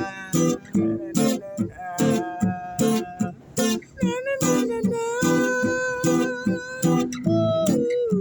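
Acoustic guitar strummed in a steady rhythm while a voice sings long, wordless held notes, one of them sustained for several seconds before stepping down near the end.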